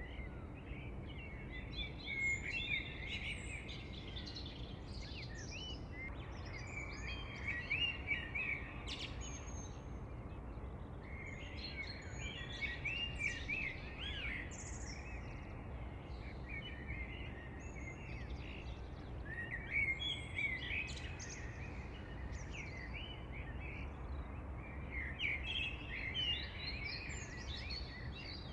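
Several songbirds chirping and singing in overlapping bursts, over a steady low background rumble.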